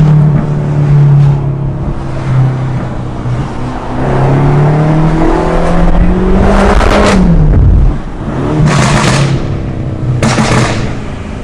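BMW F90 M5's twin-turbo V8 through a straight-piped catback exhaust, running steadily on light throttle, then revving up about seven seconds in and dropping off sharply just before eight seconds. Several short loud bursts of exhaust noise come in the last few seconds.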